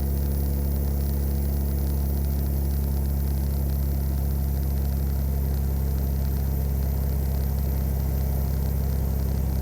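Tuned Caterpillar 3406E inline-six diesel in a 1999 Freightliner Classic truck, running at a steady engine speed while driving: an even, unchanging low drone.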